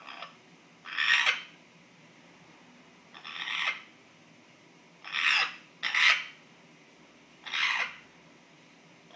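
African grey parrot giving a strange, harsh, noisy call over and over, about six half-second calls a second or two apart; the owner does not know what the noise means.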